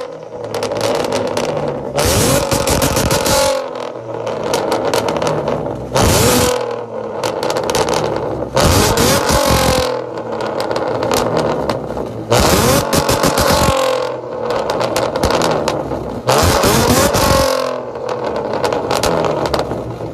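V6 Mustang engine through a straight-piped exhaust with no mufflers or resonators, revved hard in about five short bursts. Between bursts it runs quieter, and its pitch falls away as the throttle closes each time.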